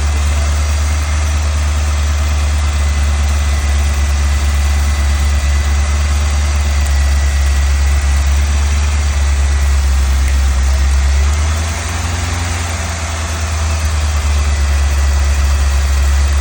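1984 Cross-Fire Injection V8 idling steadily with its base timing just set and the computer timing control back in, the idle dipping briefly about three-quarters of the way through before settling back.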